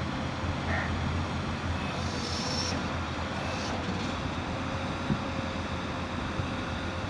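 Bucket truck's generator running steadily: a low hum with a faint steady whine, and a brief hiss about two seconds in.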